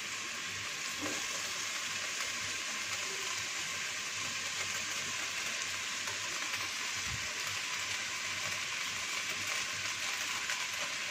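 Chicken, cabbage, onions and bell peppers sizzling steadily in a nonstick pan over a high flame.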